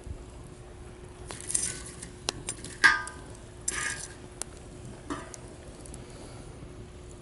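Wood campfire crackling: scattered sharp pops and a couple of brief hissing bursts, the loudest pop about three seconds in.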